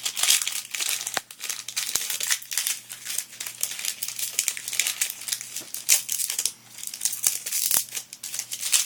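A Yu-Gi-Oh Cosmo Blazer booster pack's plastic wrapper crinkling and crackling steadily as it is torn open by hand.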